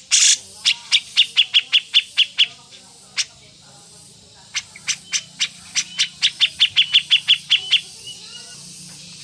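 Songbird calling in two rapid runs of sharp, loud repeated notes, about five a second, with a single note and a pause between the runs.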